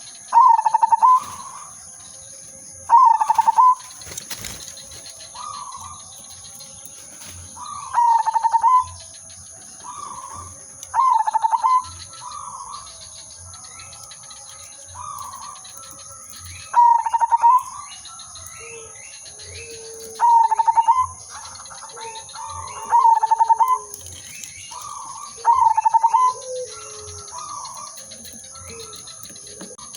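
Zebra dove (perkutut) cooing: a loud, rippling coo phrase repeated about every two to three seconds, with fainter coos from other doves in between and lower-pitched coos joining in the second half. A steady high-pitched whine runs underneath.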